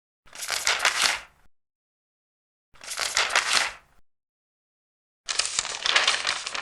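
Large paper pages being turned, three turns in a row, each a crisp rustle of about a second with dead silence between them; the third is a little longer.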